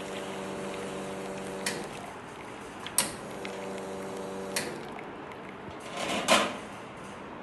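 Coffee machine running in two short spells of steady electric humming, each begun by a sharp click, then a brief louder noisy burst near the end.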